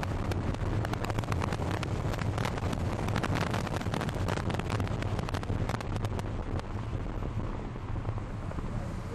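Porsche 911 Carrera engine running at speed, heard from inside the cabin, with wind buffeting the microphone. Many short crackles and knocks run through the first six seconds or so, then ease off.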